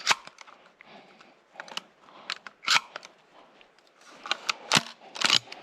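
Hunting gun being reloaded by hand: a string of sharp metallic clicks and snaps, the loudest about two and a half seconds in and near the end.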